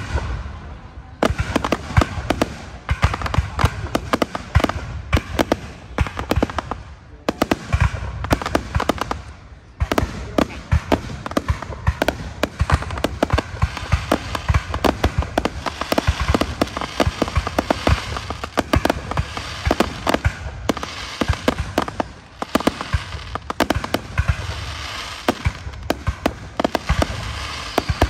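Fireworks display: aerial shells launching and bursting in a rapid, near-continuous barrage of sharp bangs, several a second, with only brief lulls.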